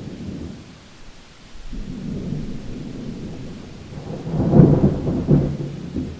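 Thunder rumbling over steady rain: a low rumble builds about two seconds in and peaks with a loud crackling clap around four and a half seconds, then rolls off.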